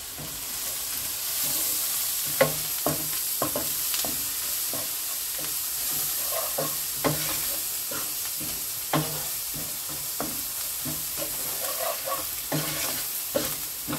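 Onion and spice masala sizzling in hot mustard oil in a pan, stirred with a spatula that scrapes and taps against the pan at irregular moments.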